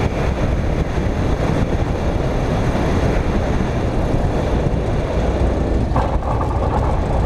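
Steady, loud cockpit noise of a Cessna 172 in flight or rolling on the runway: engine and rushing air. About six seconds in, an added hum joins it.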